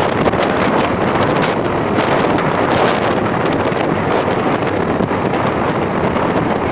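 Steady, loud wind rushing and buffeting against the microphone.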